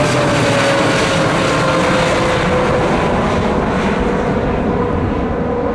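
Boeing 787 Dreamliner's twin turbofan engines at takeoff thrust, a loud steady jet roar with a whining tone that slowly falls in pitch as the airliner passes and moves away.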